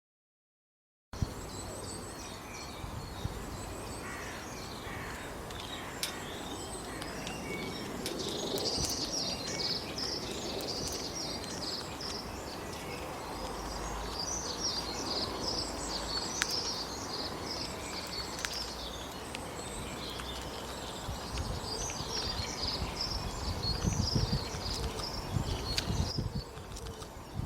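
Many small birds chirping over a steady outdoor background noise, starting after about a second of silence, with a few low thumps near the end.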